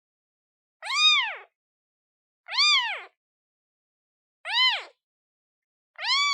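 Newborn kitten, one day old, meowing to call its mother: four short high-pitched meows, each rising then falling in pitch, about one and a half to two seconds apart.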